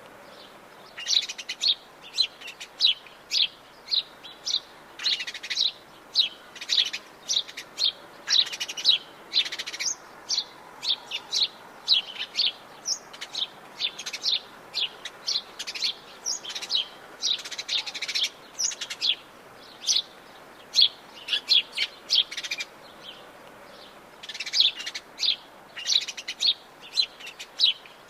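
Several songbirds chirping and trilling in rapid, overlapping bursts of high notes, over a faint steady forest background.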